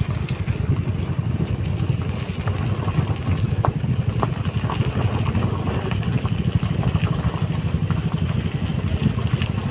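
TVS Ntorq motor scooter running on the move, its engine hum mixed with steady wind rumble on the microphone.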